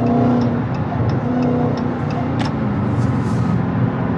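Car cabin noise while driving on the highway: steady engine and road rumble, with music playing from the car stereo underneath, its beat ticking about three times a second.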